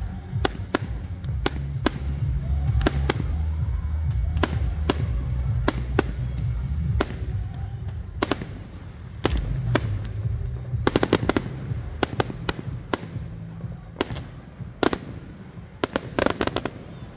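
Fireworks going off in a steady run of sharp bangs, every half second or so, with bursts of rapid crackling bangs about eleven seconds in and again near the end, over a constant low rumble.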